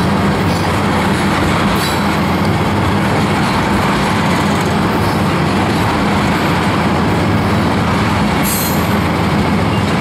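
Railroad tank cars rolling past at track side, a steady loud rumble of steel wheels on rail with a short high screech near the end.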